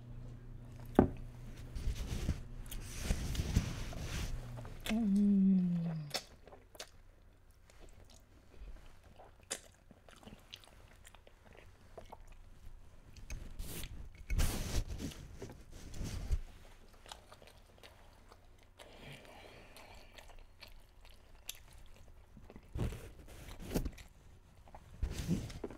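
Close-up eating sounds of a person chewing a mouthful of creamy pasta, with wet mouth noises and scattered sharp clicks and taps. About five seconds in there is a short vocal sound that falls in pitch, and a low steady hum runs through the first few seconds.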